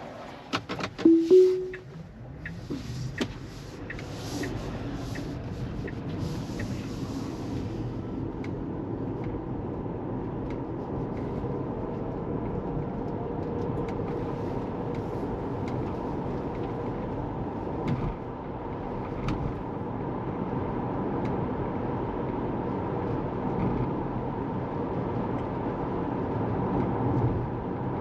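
Inside a Tesla Model 3's cabin: a short two-note chime about a second in and a few clicks, then steady road and tyre noise that slowly builds as the car drives off.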